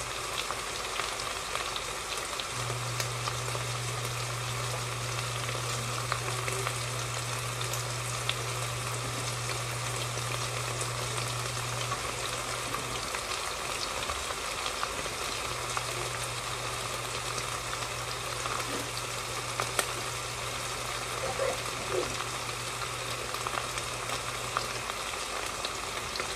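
Chicken frying in a pan: a steady sizzle with small crackles and pops. A low steady hum comes in underneath, drops out for a few seconds near the middle, then returns.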